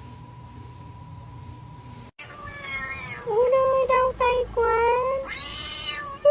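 A cat meowing in a run of drawn-out, wavering yowls that bend up and down in pitch, with a breathier call near the end. Before that, a steady high tone over a low hum cuts off abruptly about two seconds in.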